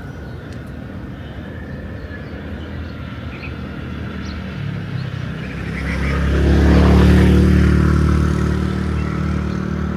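A motor vehicle's engine passing by, growing louder from about halfway, loudest a few seconds before the end, then easing off slightly.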